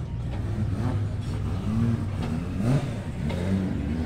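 Car engines running along a lineup of drift cars, with one engine revving briefly up and back down about two and a half seconds in.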